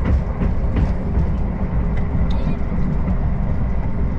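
Afrosiyob Talgo 250 high-speed train running, heard from inside a passenger car as a steady low rumble with faint clicks.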